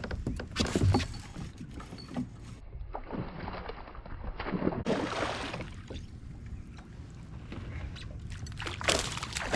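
Water splashing and sloshing around a fishing kayak in surges, with a few short clicks and knocks of gear on the hull.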